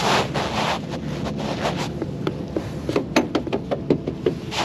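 Rustling and handling noise as someone searches around and under a vehicle seat: a burst of rustling, then a run of quick clicks and knocks.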